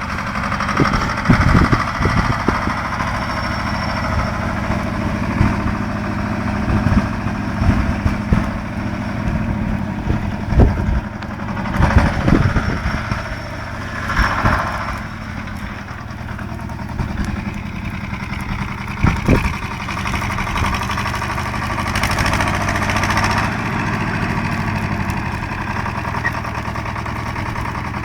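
BJR Falcon 40 articulated compact tractor's diesel engine running steadily, with a few sharp knocks and clatter from work with the log grab, and a brief rise in engine sound about halfway through.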